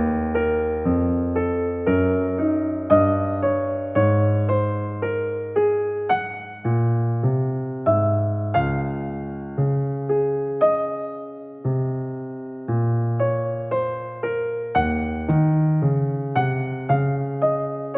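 Background music: a piano or electric piano playing a slow, gentle melody of single struck notes and chords, each note fading away.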